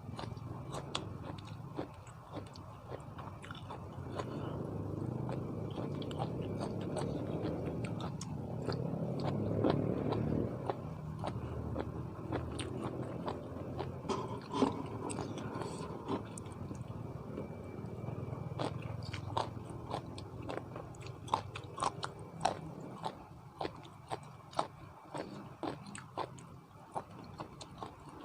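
A person chewing and biting food close to the microphone: many short wet clicks and crunches, mouthful after mouthful, while eating a spicy seafood papaya salad.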